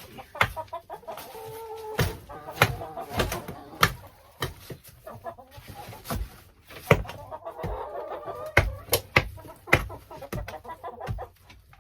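A hand tool striking and chipping at frozen ground and ice in irregular sharp blows, about a dozen or more, with chickens clucking between the strikes.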